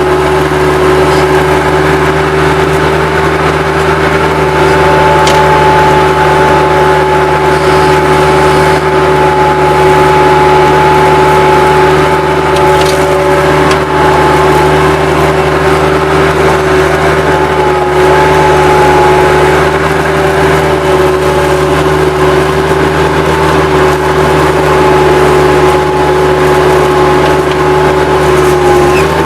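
Bobcat 763 skid-steer loader running steadily under working throttle, a constant engine drone with a steady high whine over it.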